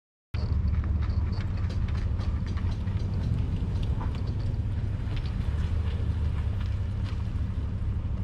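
Small boat under way on the water: a steady low rumble with many scattered light ticks and knocks over it, starting abruptly just after the start.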